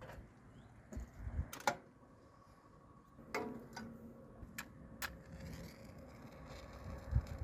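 Scattered sharp knocks and clicks, about seven in all, the one about three seconds in followed by a brief faint ringing tone.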